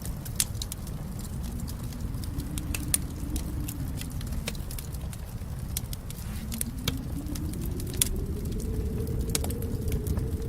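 Wood fire crackling: irregular sharp pops and snaps over a steady low rumble, with a faint low whoosh that slowly rises and falls in pitch twice.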